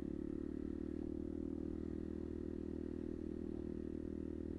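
Kuba Black Cat motorcycle engine running steadily while riding, at an even pitch with no revving.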